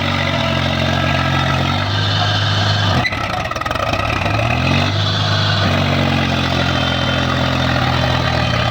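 Heavy diesel engine running steadily. About three seconds in its note breaks off, then climbs as it revs up and settles back into a steady run.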